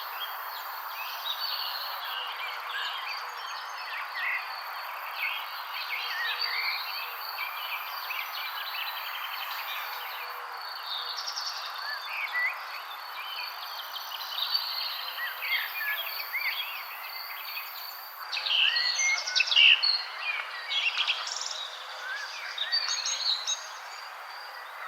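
A chorus of several birds chirping and singing at once, short quick calls overlapping over a steady background hiss. The calls grow louder and busier in the last several seconds.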